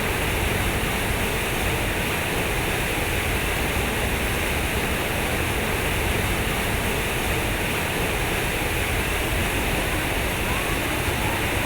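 Water flowing with a steady, even rush.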